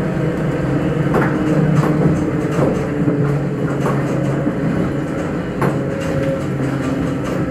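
Electric train of the Grütschalp–Mürren mountain railway running along the track with a steady hum. Now and then a sharp clack sounds as the wheels cross rail joints and points.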